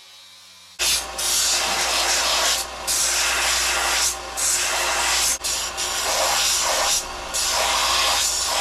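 Power sander abrading steel strips to clean them up, a loud steady scraping noise over a motor hum. It starts abruptly about a second in and dips briefly several times as the metal is eased off and pressed back on.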